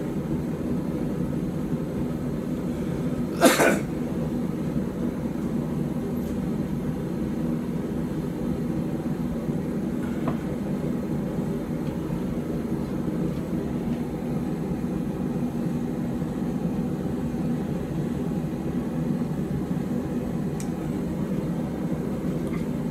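Forge running with a steady low roar while the knife blade heats in it. One short, sharp sound stands out about three and a half seconds in.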